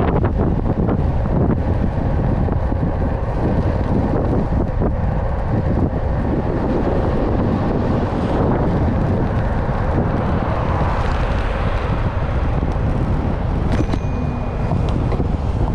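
Steady, loud wind buffeting on the microphone over the rumble of a moving vehicle.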